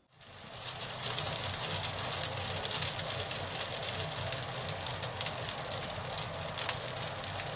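Food sizzling and crackling steadily in a hot frying pan, over a low hum.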